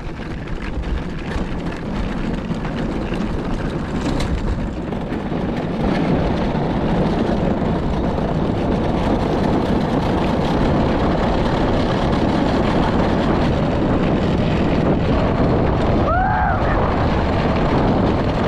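Wind rushing over the camera microphone and the wheels of an unpowered downhill cart rolling. It grows louder over the first several seconds as the cart picks up speed, then holds steady. A brief tone rises and falls near the end.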